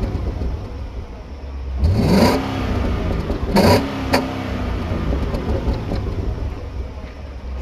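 Stock-exhausted L77 6.0-litre V8 idling, blipped twice to a quick rev that rises and falls back to idle, about two seconds in and again a second and a half later, with a sharp click just after the second blip.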